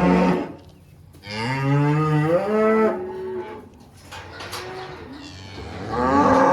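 Cattle mooing, several long calls one after another: a long moo that rises in pitch about a second in, a fainter one midway, and a loud moo near the end.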